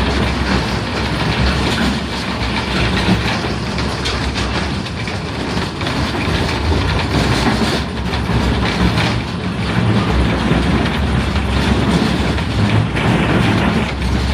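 Rail cars rolling on track, a steady loud rumble and clatter of wheels on rails.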